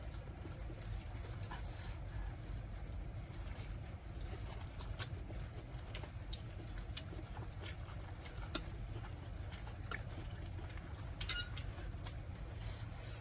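Eating sounds from a mukbang of spicy noodles: soft wet chewing and slurping with scattered small clicks, over a steady low hum.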